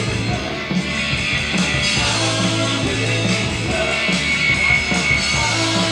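Live rock band of two electric guitars, bass guitar and drums playing at full volume, driving through the instrumental opening of a song with a steady beat.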